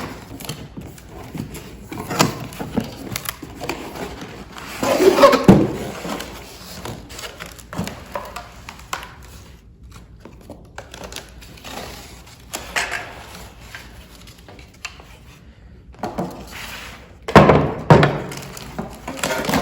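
Knocks, clicks and rustling from a cordless circular saw being handled, with louder clattering about five seconds in and again near the end. The saw's motor is not running.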